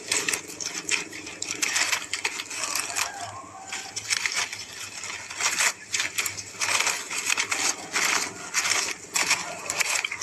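Irregular crunching, rustling and clicking noises, with short sharp bursts coming unevenly: a greater coucal chick tearing at and swallowing a rat.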